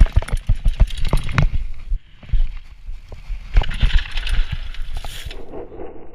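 Diamondback Heist 2.0 hardtail mountain bike rattling and knocking over a rough trail, with wind buffeting the camera microphone. The knocks come fast and irregular, ease off around two seconds in, then pick up again.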